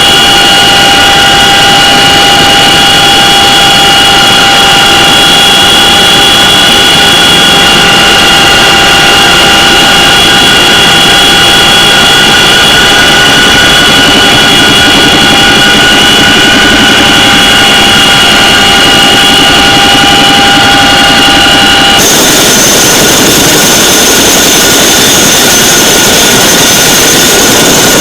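CH-47 Chinook twin-rotor helicopter running loud and steady, its turbine engines giving a high whine over the rotor noise. About 22 seconds in the sound changes abruptly to a different, higher whine.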